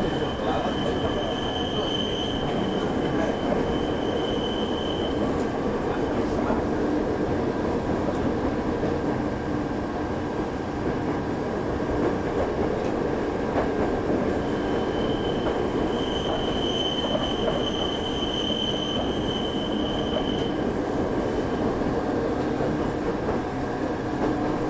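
Train running noise heard from inside the carriage, a steady rumble. Twice a high, steady wheel squeal rises over it, the first lasting about four seconds, the second starting about fifteen seconds in and lasting about five seconds. This is the squeal of wheels rounding the tight curves of a winding mountain line.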